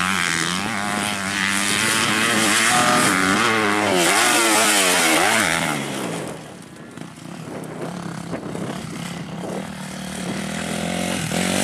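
Motocross bike engines revving up and down through the gears, pitch rising and falling repeatedly. The sound is loud for about six seconds, drops away, then builds again near the end.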